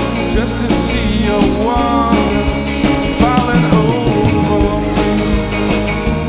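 Rock band playing live, a stretch without sung words: drums hitting steadily under melodic lines with sliding notes.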